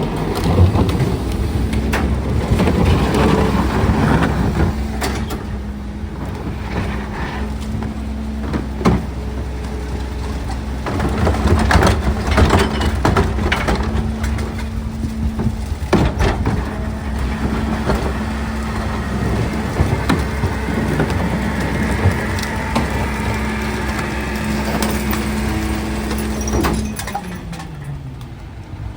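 Garbage truck engine running at raised revs with a steady hum, with repeated clanks and knocks of trash and metal. Near the end the hum cuts off and the engine pitch falls away.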